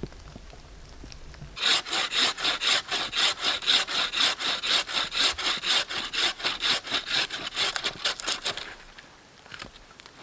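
Hand saw cutting through wood in rapid, even strokes. It starts about a second and a half in and stops near the end.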